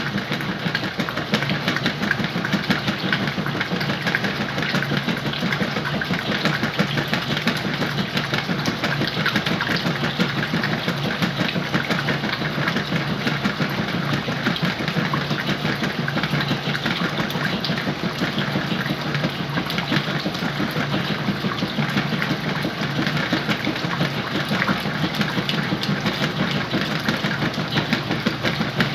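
Whirlpool washing machine running with a load of sheets and pillows: a steady motor hum under a constant, busy clatter.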